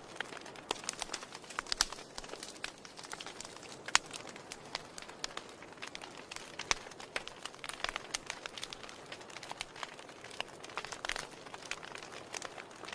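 Wood fire crackling in a fireplace: a soft steady hiss under constant irregular pops and snaps, one sharper pop about four seconds in.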